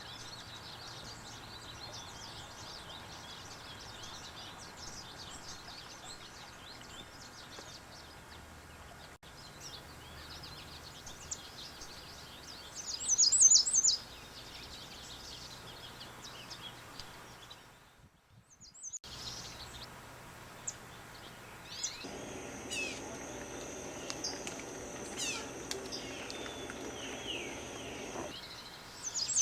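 Wild birds chirping and singing over outdoor background noise, with a loud burst of high song about halfway through. The sound drops out briefly, then another recording follows with more chirps over a steady high tone.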